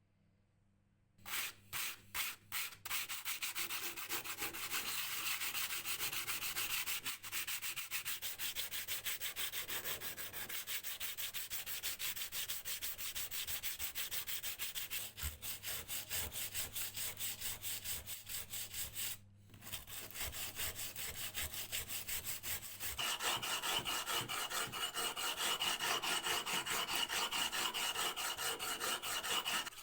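Hand sanding: an abrasive rubbed back and forth in fast, even strokes. It starts with a few separate strokes about a second in, then runs continuously, stops briefly about two-thirds of the way through, and resumes brighter and louder.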